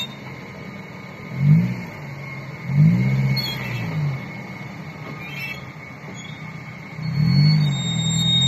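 Suzuki Grand Vitara's engine pulling the 4x4 slowly over rough off-road ground, revving in two short blips about a second and a half and three seconds in, then held at higher revs from about seven seconds.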